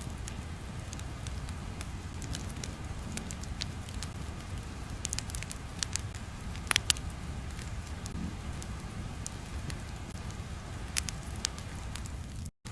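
Crackling fire ambience: a low steady rumble with scattered sharp crackles and pops. The sound cuts out completely for an instant near the end.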